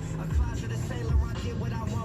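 Hip hop song with a rapped vocal over a heavy, regular bass beat, playing on the car stereo inside the cabin.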